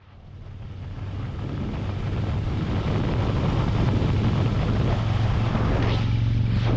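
Harley-Davidson Road Glide V-twin engine running steadily under way, with wind rushing over the microphone, fading in over the first two seconds.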